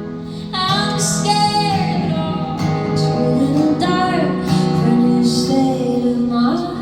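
Live acoustic song: acoustic guitar playing under a singing voice holding and bending sustained notes without clear words.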